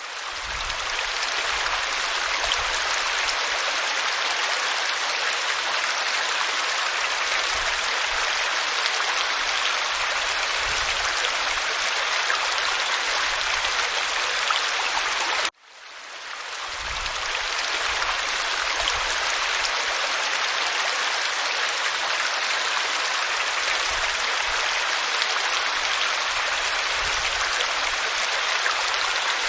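Waterfall pouring over rock, a steady rushing hiss of falling water. About halfway through it cuts out for an instant and swells back in over a second or two, like a loop being restarted.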